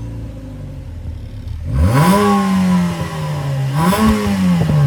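Car engine idling, then revved twice: the pitch climbs sharply about two seconds in and sinks slowly, then rises again briefly near the end and falls back toward idle.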